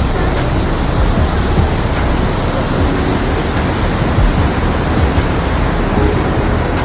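Waterfall in full monsoon flow: a loud, steady rush of falling water.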